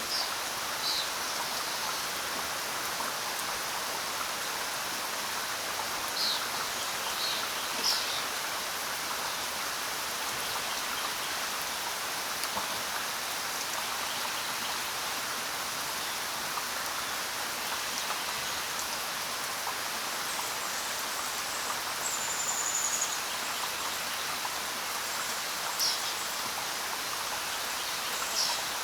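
Steady rain falling, with short high bird chirps now and then and one brief whistled note about two-thirds of the way through.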